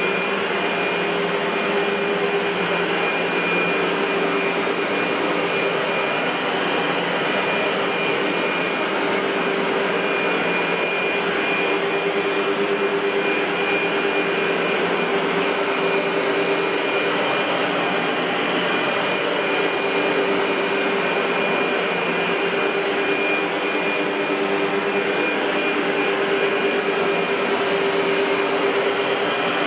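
Century 400 U-Vac (a rebadged SEBO) bagged commercial upright vacuum cleaner running steadily: an even rush of air with a steady hum and a high whine that hold unchanged throughout.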